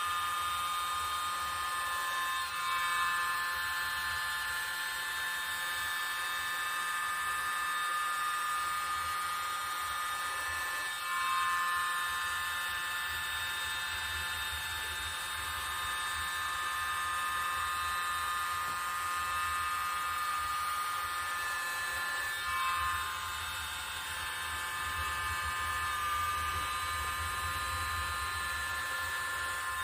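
Hair dryer running steadily, blowing poured acrylic paint across a canvas; its motor whine dips briefly and recovers three times, about two seconds in, around eleven seconds and around twenty-two seconds.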